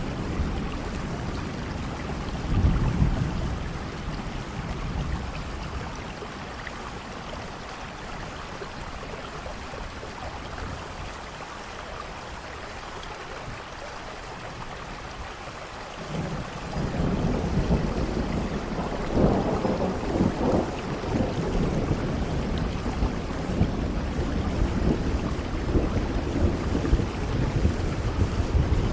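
Steady rain falling during a thunderstorm. A short low rumble of thunder comes about three seconds in. Past the halfway point a longer roll of thunder builds, loudest a few seconds later, and keeps rumbling under the rain.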